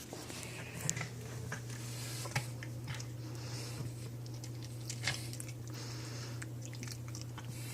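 Dogs chewing hard dental chew treats, with irregular crunches and clicks of teeth on the chews over a steady low hum.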